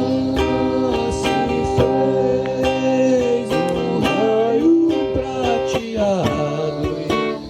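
Acoustic guitar strummed in a steady rhythm, with a voice singing along in long, gliding notes through the middle.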